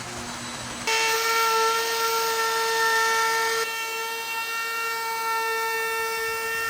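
Electric power tool motor running at a steady speed, a high, even whine. It starts abruptly about a second in, and the hiss over it drops away a little after halfway while the whine holds its pitch.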